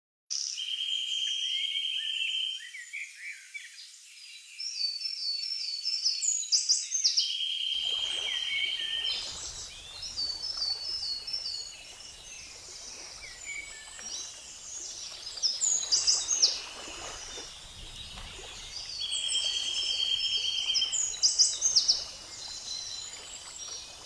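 Birds singing: a sequence of a buzzy trilled note, a run of quick chirps and high whistled notes that comes round about three times, over a faint background hiss.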